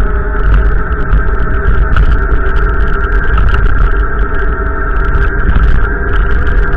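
Wind buffeting the microphone in a loud, continuous low rumble with scattered crackles, over a steady hum with several held tones like a running motor.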